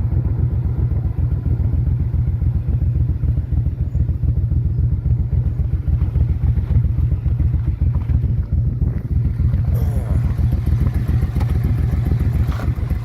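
Motorcycle engine running steadily, a low, even, rapid beat.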